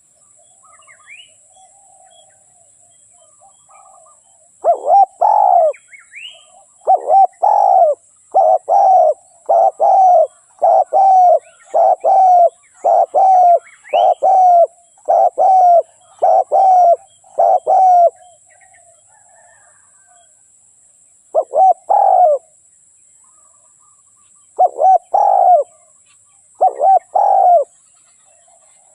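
Spotted dove cooing: a long run of low coos, about one a second, then after a pause three short groups of two or three coos.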